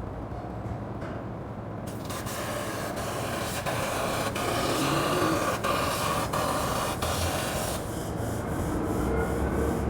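CNC laser cutter at work: a hissing cut noise starts about two seconds in and stops about two seconds before the end, over a steady low machine hum.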